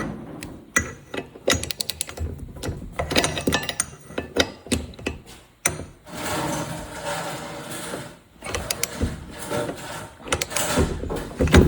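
Socket ratchet wrench clicking in quick runs of strokes as the brake rotor bolts are tightened one after another.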